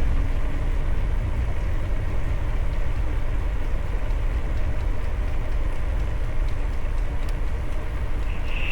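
Steady low rumble of wind buffeting the camera's onboard microphones. A short, high, steady tone comes in near the end.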